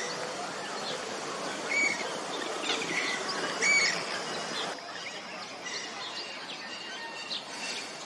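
Birds chirping over a steady outdoor hiss: a few short, clear calls in the first half, then fainter scattered chirps.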